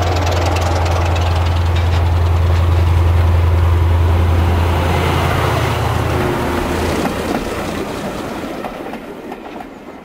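Diesel train passing: a steady low engine drone with rushing rail noise, fading away over the last few seconds.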